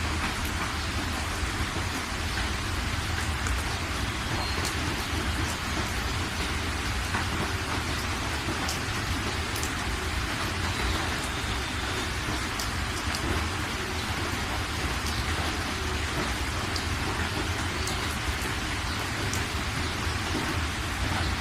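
Heavy rain pouring steadily in a thunderstorm, with a constant low rumble underneath and scattered sharp ticks of drops.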